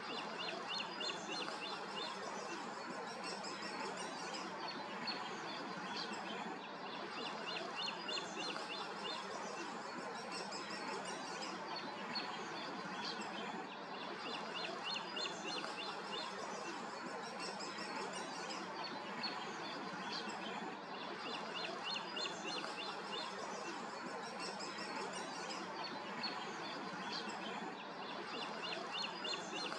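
Songbird singing a phrase of rapid high notes, each phrase about a second long and repeated every several seconds. A steady, even background rush runs underneath.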